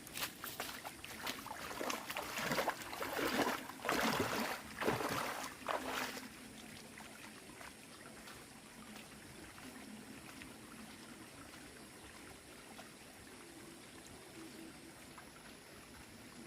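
Irregular splashing and sloshing of water for about six seconds, then a quieter, steady background.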